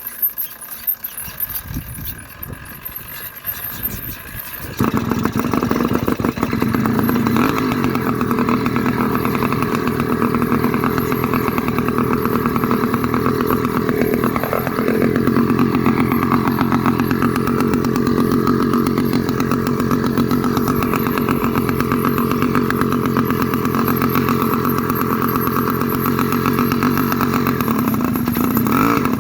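Two-stroke 66/80cc motorized-bicycle engine, with its exhaust cap and air filter cover removed, sputtering in uneven pulses at first and catching about five seconds in. It then runs steadily and loud for the rest of the time, with small rises and dips in pitch.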